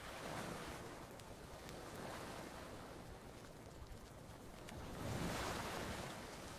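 Ocean waves washing onto a beach, rising and falling in slow surges, the biggest about five seconds in, with a few faint campfire crackles.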